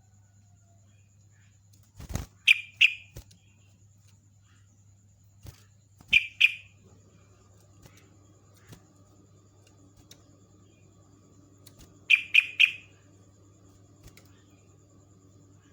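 Yellow-vented bulbul (trucukan) calling: short bright notes in quick groups of two or three, a burst every few seconds. A sharp knock comes just before the first group, over a steady low electrical hum.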